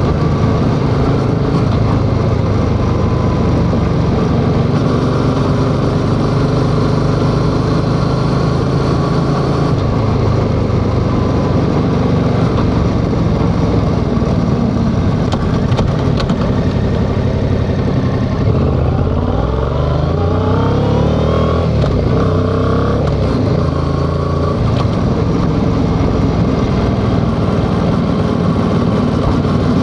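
Yamaha XSR700's parallel-twin engine running while riding, heard from on the bike. About two-thirds of the way through, its pitch climbs in steps as the bike accelerates, then settles back to a steady run.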